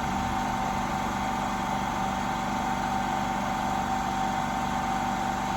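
Steady machine hum with a few held tones and no change in level.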